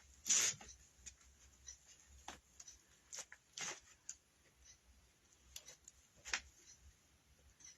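Faint, scattered clicks and rustles of hands working wire wreath forms and zip ties, with a louder brief rustle about half a second in.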